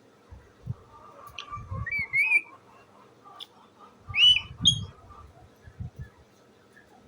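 Pet parrot giving short whistled calls that bend up and down in pitch: one group about two seconds in and a louder one a little after four seconds in. Soft low thumps come between and under them.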